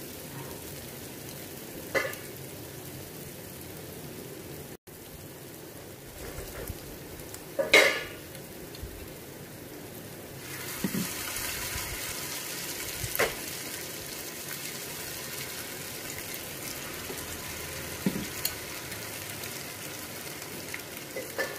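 Ghee sizzling steadily around ghewar batter frying into its lacy disc. About ten seconds in, a spoonful of batter is poured into the centre and the sizzle gets louder. A few sharp knocks of the steel spoon against the pan are heard through it.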